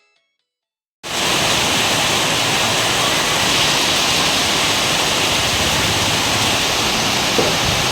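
Heavy rain pouring down steadily, cutting in suddenly about a second in.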